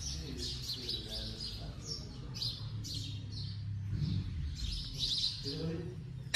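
Small birds chirping, a string of short high chirps repeating all through, over faint voices in the background.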